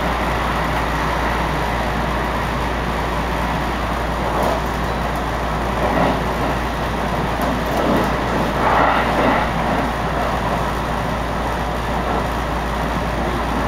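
Electric commuter train running at speed, heard from inside the passenger car: a steady rumble of wheels on the rails, swelling a little a few times in the middle.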